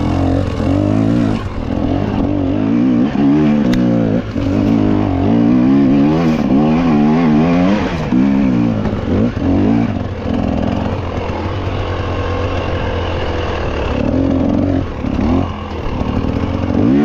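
Off-road motorcycle engine revving up and down over and over, its pitch rising and falling quickly as the throttle is worked over rough trail.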